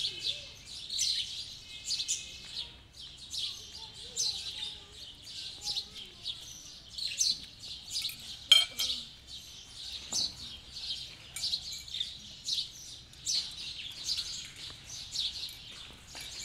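Birds chirping continuously, a steady run of short, high calls. A single sharp click about eight and a half seconds in stands out above them.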